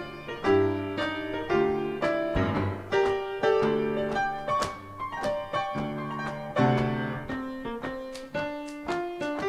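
Piano playing an instrumental break: a run of struck chords and notes, each ringing and fading before the next.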